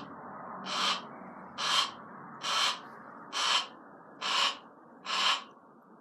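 Barn owl hissing in a steady series, about one rasping hiss a little faster than once a second, seven in all.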